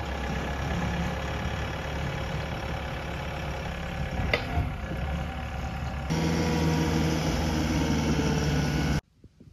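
Skid-steer loader engine running steadily, with a sharp knock about four seconds in. The sound shifts abruptly to a louder, steadier engine note about six seconds in, then cuts off suddenly near the end.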